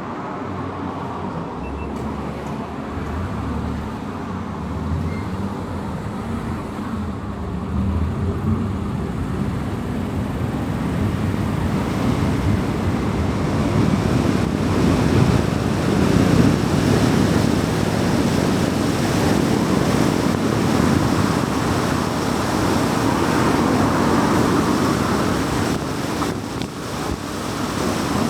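A car driving on a highway: steady tyre, road and wind noise, growing louder over the first half as it gathers speed, then holding at a high level.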